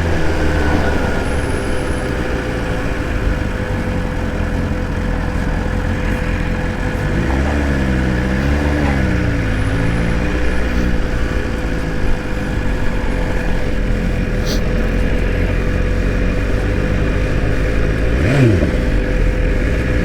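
BMW S1000RR inline-four sport-bike engine running while riding, with heavy low wind rush. The engine note wavers up and down for a few seconds in the middle, and there is a brief sharp rev near the end.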